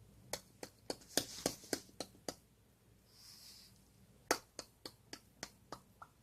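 Two runs of sharp clicks, about four a second, with a brief hiss between them.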